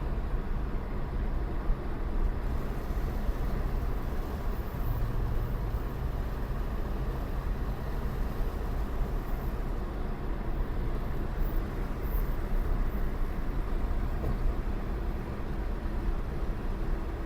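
Nissan 1400 pickup driving along a road, heard from inside the cab: a steady low rumble of its petrol engine and the road noise.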